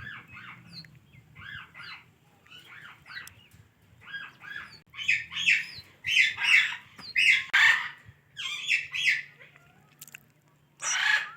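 Ringneck parakeet chattering and calling in a string of short bursts. The calls grow louder and come thicker from about halfway through, and there is one loud, harsh squawk near the end.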